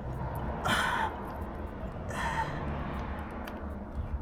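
Two short, effortful breaths, about a second and a half apart, from a man straining to prise a nail out of a tyre, with faint light clicks of tools.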